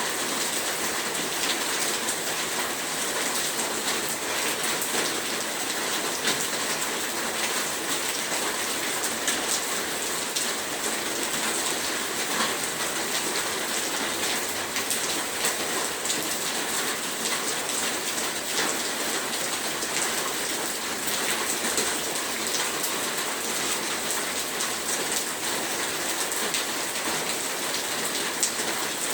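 Heavy rain falling steadily, a dense even hiss of drops hitting a surface with fine pattering clicks throughout.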